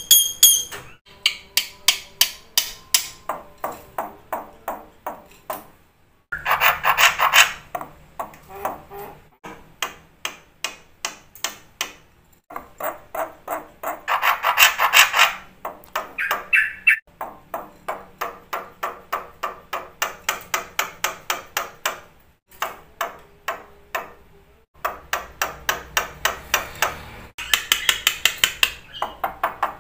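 Black-winged starling (jalak putih) singing: a long run of short, sharp notes repeated about four times a second, broken three times by louder, fuller passages of song.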